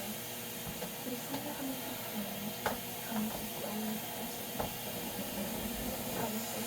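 Shark vacuum cleaner running steadily, with a few short knocks.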